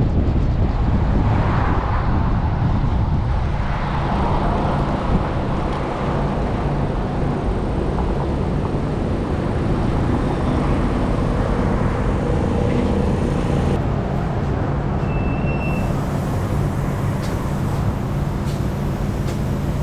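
Off-road vehicle engine running steadily under load, with wind rushing over the microphone.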